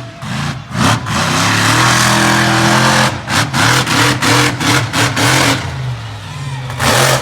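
Monster truck engine revving hard: held at high revs, then blipped on and off about three times a second, easing briefly before a loud surge near the end.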